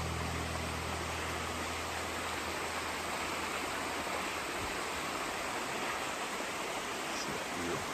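Waterfall rushing: a steady, even hiss of falling water. A low hum fades out in the first couple of seconds.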